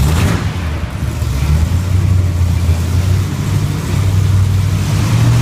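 Chevy pickup truck's engine running with a steady low drone that rises a little in pitch in the second half.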